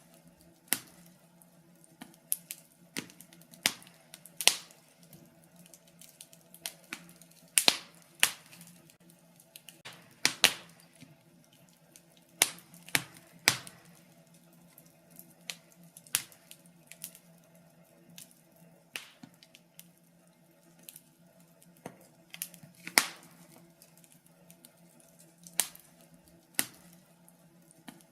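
Wood fire crackling in a fireplace: irregular sharp pops and snaps, about one or two a second, over a faint steady hum.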